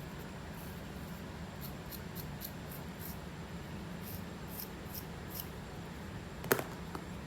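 Scratching at a scalp to loosen dandruff flakes: short, faint scrapes at an irregular pace, with one sharp click about six and a half seconds in.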